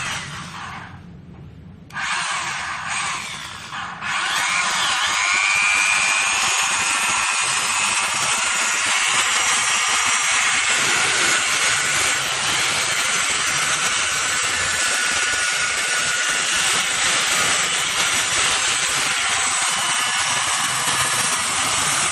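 Handheld power sander running against a powder-coated surface, sanding the finish. It cuts in and out in short bursts at first, then runs steadily from about four seconds in.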